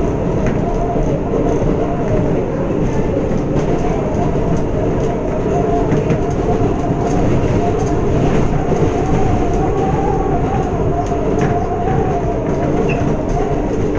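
New York City 7 local subway train running between stations, heard from inside the car: a steady rumble of wheels on rail with scattered clacks and a motor whine that wavers up and down in pitch.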